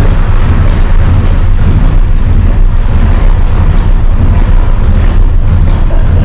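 Dutch barge's engine running steadily while the boat is underway, a loud, constant low rumble.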